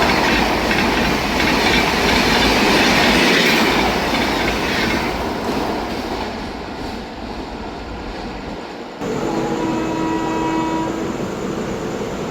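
Train passing through the station at speed, its wheels clattering over the rail joints; the rolling noise starts to fade after about five seconds. About nine seconds in the sound changes abruptly and a short steady tone sounds for a second or two.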